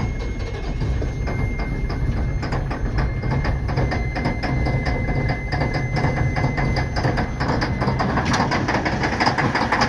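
1987 Mack dump truck's diesel engine being cranked hard on a cold start, heard from inside the cab, with a rapid even chugging; about eight seconds in it fires and catches, growing louder. A steady high warning buzzer sounds until the engine catches.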